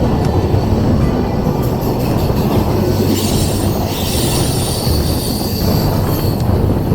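Express train running on the rails, a steady heavy rumble of the coaches. About three seconds in, a high metallic wheel squeal joins it and lasts a few seconds.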